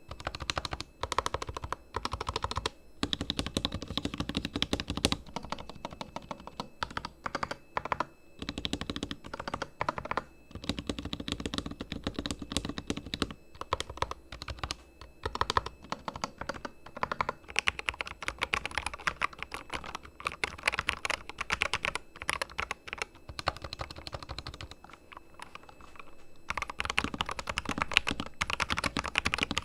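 Corsair K100 RGB mechanical keyboard, its switches and stabilizers fully lubed, being typed on: quick runs of keystrokes with a few short pauses.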